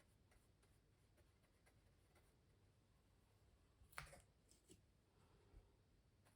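Near silence, with one sharp click about four seconds in and a few faint ticks after it.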